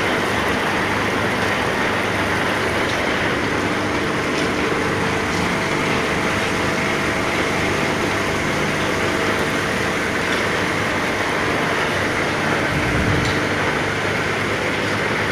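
Ball mill running: the rotating drum grinding ore gives a loud, steady, dense mechanical noise with a faint steady hum in it, and a brief low thump about thirteen seconds in.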